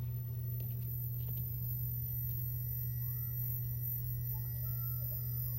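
A steady low hum with a faint rumble underneath, and a couple of faint short gliding tones in the second half.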